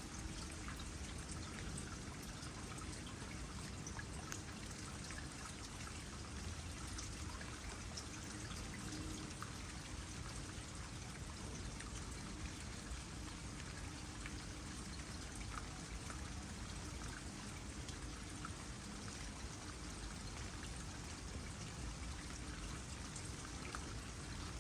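Water trickling steadily into a small pond, with light rain pattering as many small drops.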